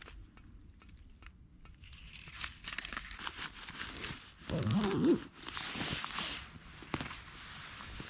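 Irregular rustling, crinkling and crunching from close handling and movement, with a short, louder low voice-like sound about five seconds in.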